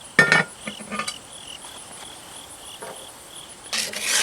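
Crickets chirping in a steady pulse. A sharp metallic clink rings near the start as the cast-iron Dutch oven lid is handled, with a lighter clink about a second in and a brief rustle near the end.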